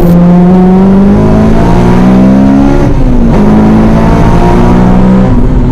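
Honda Civic Type R's K20 four-cylinder engine pulling hard under acceleration, its pitch climbing steadily, with a brief sharp dip about three seconds in before it climbs again.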